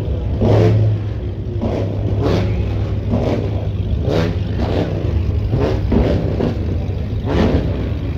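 Car engine running with a steady low rumble, with short louder bursts every half second or so.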